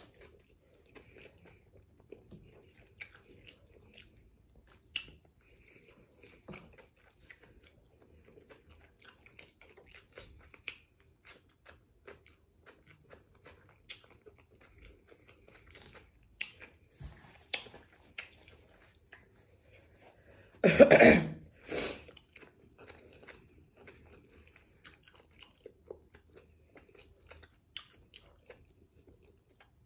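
Close-miked chewing and biting of a chicken burrito, with many small wet mouth clicks. About two-thirds of the way through comes a short, much louder burst, then a briefer second one.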